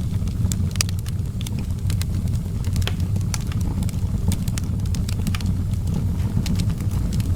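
Fire in an outdoor fireplace crackling, with frequent irregular sharp pops and snaps over a steady low rumble.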